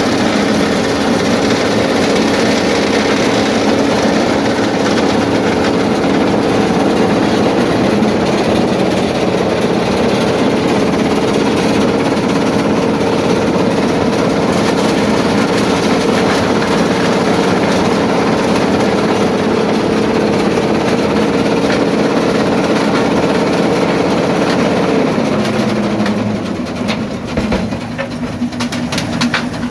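Quarry primary jaw crusher plant running: a dense mechanical rumble and clatter with a steady engine drone. About 25 seconds in, the drone drops in pitch and the noise eases, and near the end come a series of sharp knocks.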